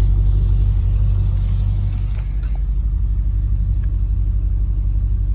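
6.0-litre L98 V8 running at a steady idle: a low, even rumble with a regular pulse.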